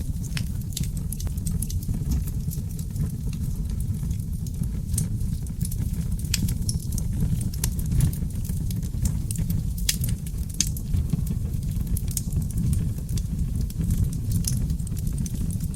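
Seasoned oak logs burning in a fireplace: a steady low rumble of flame with scattered sharp crackles and pops.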